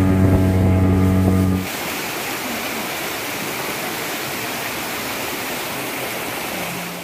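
A motorboat engine running with a steady low hum, cut off about one and a half seconds in by a steady rush of falling water from a waterfall.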